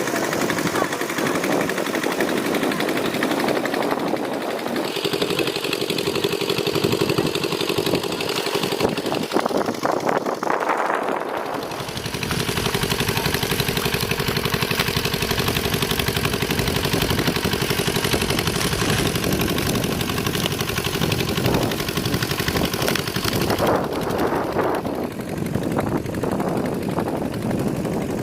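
A small engine running steadily with rapid, even pulses. Its sound grows fuller and lower about twelve seconds in.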